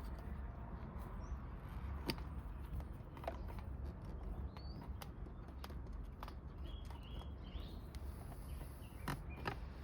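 Scattered light clicks and taps of hand tools and small metal parts being handled, with a few faint bird chirps over a steady low hum.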